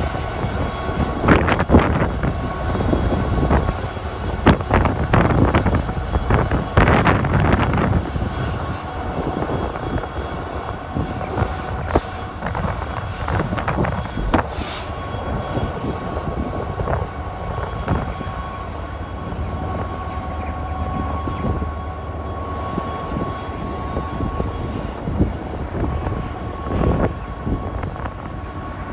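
Steady engine rumble with a faint steady whine, gusty and louder during the first eight seconds before settling.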